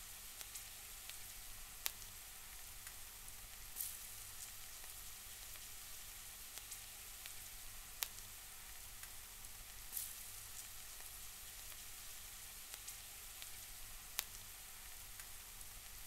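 Drumstick and coconut stir-fry sizzling in a stainless steel pan with a steady hiss. A handful of sharp clicks break in, from the steel spoon knocking against the pan.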